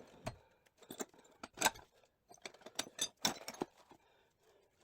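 Metal tools and gearbox parts clinking and tapping: a run of irregular sharp metallic clicks, the loudest about one and a half and three seconds in.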